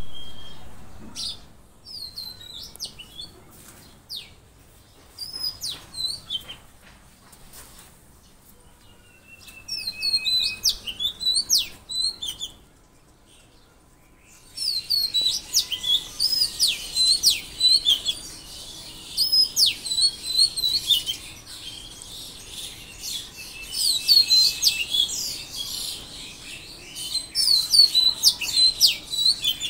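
Songbirds chirping: scattered high calls at first, a brief lull about 13 seconds in, then from about 15 seconds a dense chorus of rapid, repeated high chirps.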